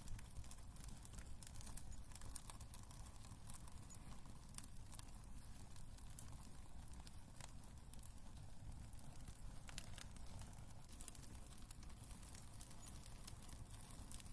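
Wood fire crackling in a fireplace: faint, irregular pops and snaps over a soft low rumble of burning logs.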